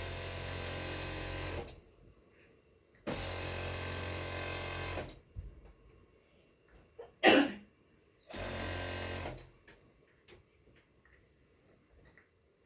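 Sewing machine stitching in three short runs, two of about two seconds and a last of about one second, stopping between them. A brief, sharp, falling sound, louder than the machine, comes between the second and third runs.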